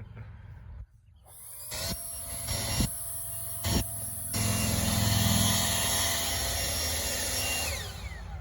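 Handheld outdoor power tool running at full speed, a steady whine over strong hiss, that starts about a second in and winds down near the end.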